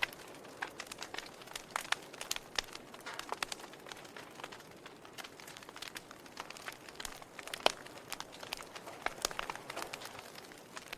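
Wood fire in a fireplace crackling, with irregular sharp pops and snaps over a soft hiss; one louder pop comes a little past the middle.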